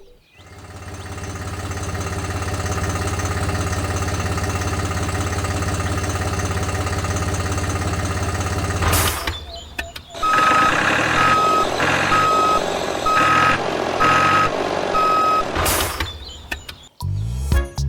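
A vehicle's engine drones steadily. After a short break about nine seconds in, a reversing alarm beeps six times at a steady pitch, about once a second, over the engine.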